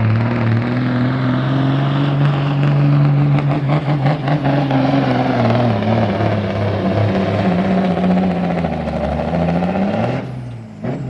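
Peterbilt semi-truck's diesel engine under heavy load pulling a weight-transfer sled, a loud steady drone whose pitch wavers and sags near the end. The sound drops off sharply about ten seconds in as the pull ends.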